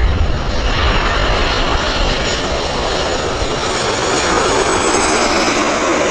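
Jet airliner on final approach passing low overhead: a steady engine roar with a faint high whine, growing slightly louder in the second half.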